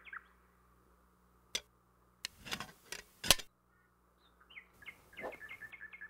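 A small songbird singing runs of quick falling chirps, right at the start and again through the last second and a half. In between come a sharp click, a short cluster of rough knocks, and a loud crack about three seconds in, the loudest sound.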